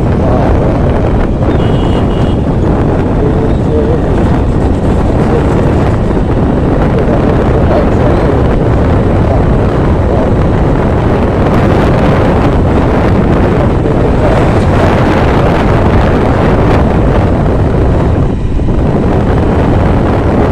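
Wind rushing over the microphone while riding, over the steady running of the SC125 two-wheeler's engine and road noise.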